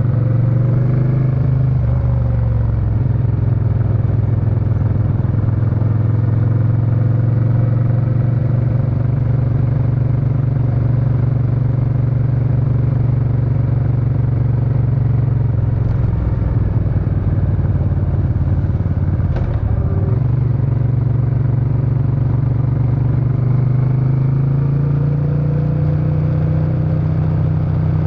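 Suzuki Intruder VS800 V-twin motorcycle's exhaust while riding, running steadily at cruising speed. The engine note drops off briefly about two-thirds of the way in, then climbs again near the end as the bike accelerates.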